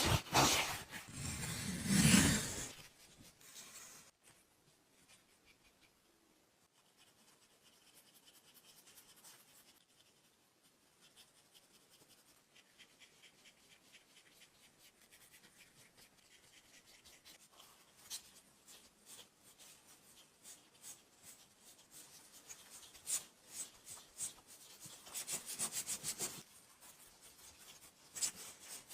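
Hand scraping on a workpiece: a loud stretch of scrubbing in the first couple of seconds, then faint quick repeated scraping strokes that grow louder near the end.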